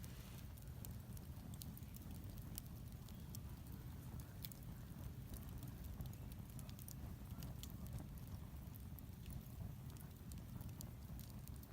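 Fire pit burning, with scattered sharp crackles and pops over a steady low rumble.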